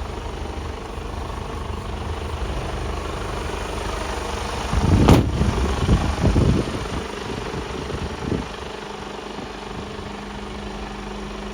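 Mercedes-Benz Actros 1842 truck's diesel engine idling steadily. About five seconds in it swells louder for a couple of seconds, opened by a brief sharp click, then settles back to a quieter, even idle.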